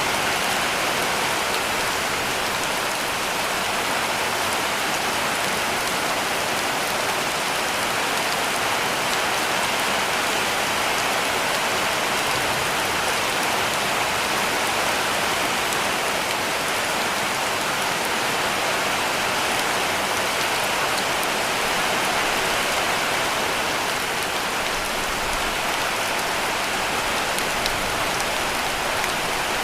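Heavy rain falling steadily on a cabin roof, an even dense hiss with scattered faint drop ticks.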